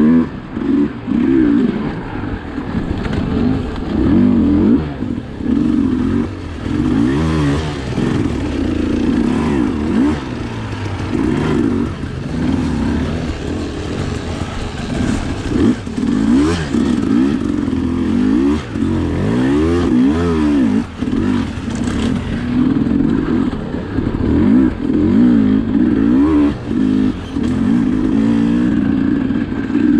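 Sherco SE 300 two-stroke enduro motorcycle engine being ridden hard, revving up and down constantly, its pitch rising and falling every second or two with throttle and gear changes.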